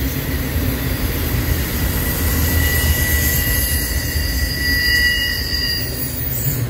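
Freight cars of a manifest train rolling past: a steady low rumble of steel wheels on rail, with high-pitched wheel squeal in several thin tones strongest over the middle few seconds.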